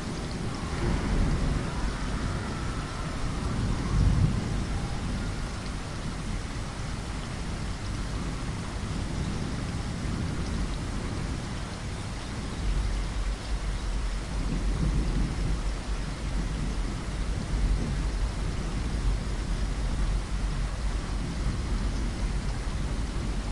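Steady rain against a window with rolling thunder, swelling about four seconds in and rumbling more heavily from about halfway through.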